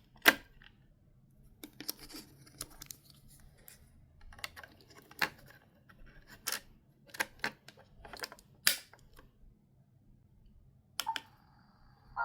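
A dozen or so light clicks and taps, with some rustling, come at irregular intervals in a quiet small room. They sound like objects being handled.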